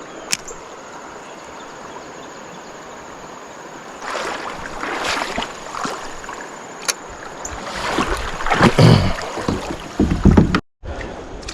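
Kayak paddling on a river: a steady rush of moving water, then irregular splashing paddle strokes from about four seconds in, with a few louder low knocks near the end. The sound cuts out briefly just before the end.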